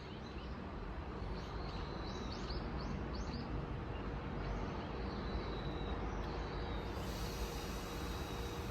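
Outdoor ambience: a steady low rumble with a run of short bird chirps over it, followed by a thin high steady note.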